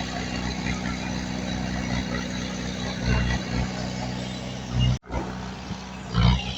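Heavy diesel engine of earthmoving machinery running steadily, with a few brief swells in loudness. The sound drops out for an instant about five seconds in, then comes back with a short louder surge near the end.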